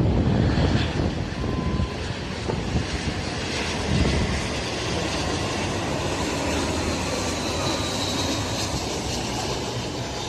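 Jet airliner engines running as a steady rush, with a faint high whine that grows stronger in the second half. Wind on the microphone adds a low rumble in the first couple of seconds.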